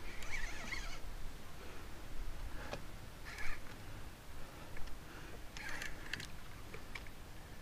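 A bird giving three short harsh calls, one near the start, one in the middle and one about six seconds in, with a few faint clicks in between.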